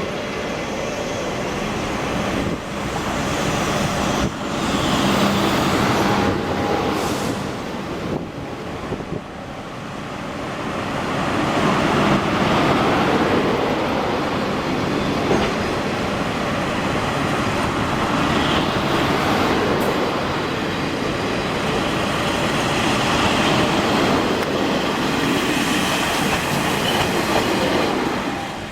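Taiwan Railway train running on the track, with continuous loud wheel-and-rail noise that dips about eight to ten seconds in and then swells again.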